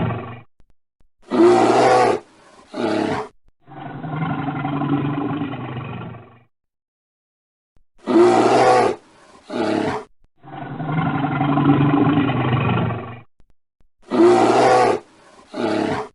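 Big cat roaring in a repeating cycle: two short roars, then one long drawn-out roar of about three seconds. The cycle comes round about three times.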